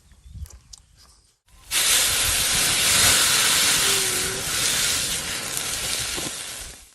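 Food sizzling in hot oil: a loud, steady hiss that starts suddenly about two seconds in and cuts off near the end.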